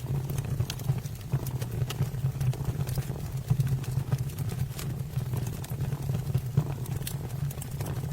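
A kitten purring steadily, with scattered sharp crackles from a wood fire burning in a fireplace.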